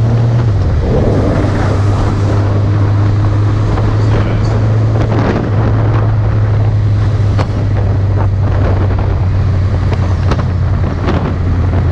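Suzuki GSX650F inline-four engine running at a steady cruise, a low drone under heavy wind noise on the microphone.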